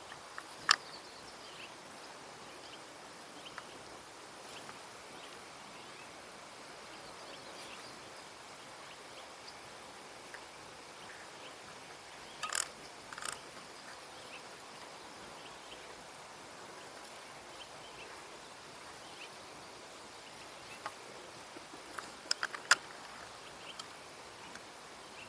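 Faint, steady outdoor background with a few sharp clicks: one about a second in, a pair about halfway through, and a short cluster near the end.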